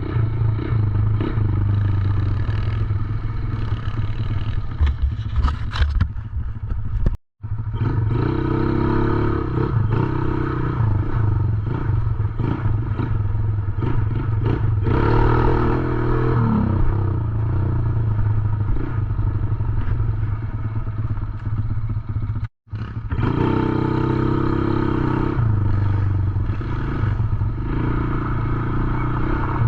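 110cc dirt bike engine running, its pitch and level rising and falling with the throttle as the bike is ridden. The sound drops out twice for a moment.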